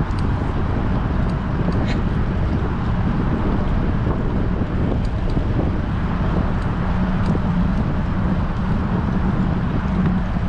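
Wind noise rushing over the microphone of a camera on a moving bicycle, steady and low-pitched, with a few faint clicks.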